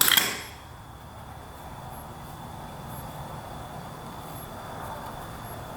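A sharp click right at the start, then quiet room tone with a faint steady hum.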